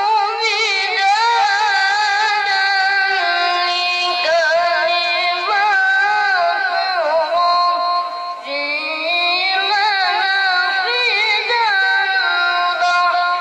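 A child reciting the Quran in the melodic tilawah style: one high voice holding long, ornamented notes with quick wavering turns, with a brief pause for breath about eight seconds in.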